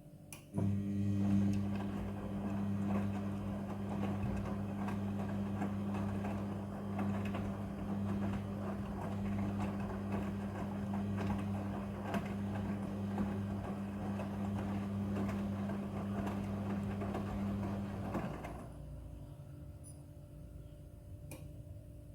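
Midea front-loading washing machine working through its wash: a click, then a steady hum with churning noise for about eighteen seconds that stops near the end.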